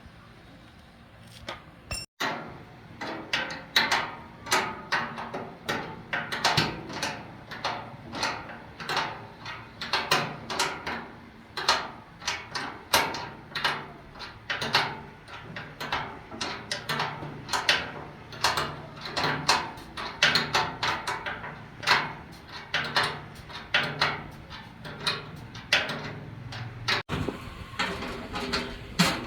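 Repeated irregular knocks and clatter, two or three a second, over a faint low hum. This is typical of hand work on machine parts.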